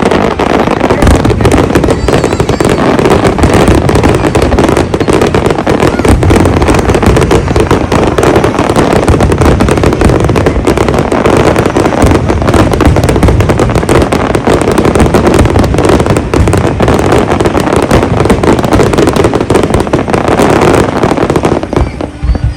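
A large fireworks display going off in a dense, continuous barrage of bursts and crackle, with no break between shells.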